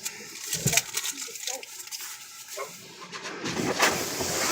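Automatic tunnel car wash starting up on the car: a quick run of clicks and knocks, then a hiss of spray and scrubbing that builds toward the end.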